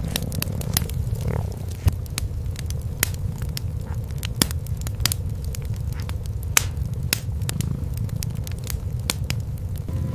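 Cats purring in a steady low rumble, while a wood fire crackles with frequent sharp pops throughout.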